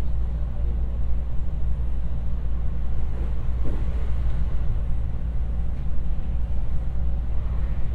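Inside the passenger car of a JR West 225 series electric train running at speed: a steady low rumble of wheels on rail and running gear.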